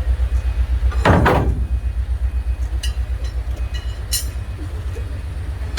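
Large vehicle running with a low, rapid, even throb, with a loud burst of noise about a second in and a few sharp clicks later.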